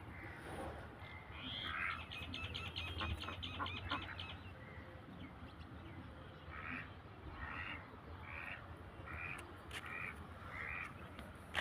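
Ducks quacking: a quick run of short calls about two seconds in, then a string of single quacks about one every second.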